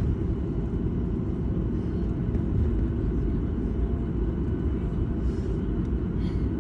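Steady low rumble of a passenger jet's engines and airframe heard inside the cabin.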